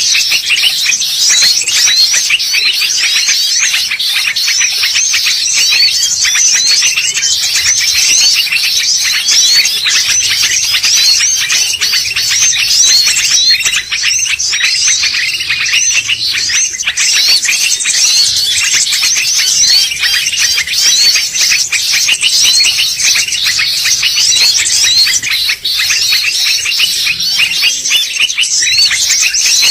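Bar-winged prinia (ciblek) song played as a bird-lure call: a loud, dense, unbroken stream of rapid high chirps.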